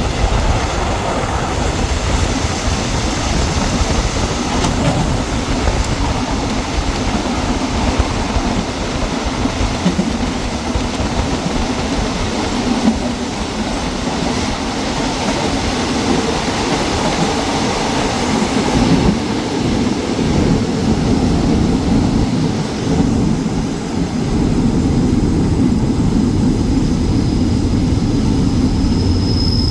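A diesel-hauled passenger train running on the track: a steady, loud rumble and rattle of the locomotive and cars.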